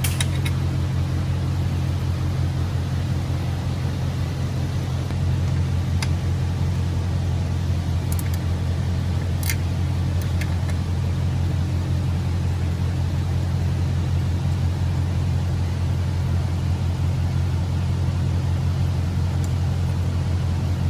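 A steady low drone of running machinery, even and unchanging, with a few sharp metallic clinks of hand tools a few seconds apart.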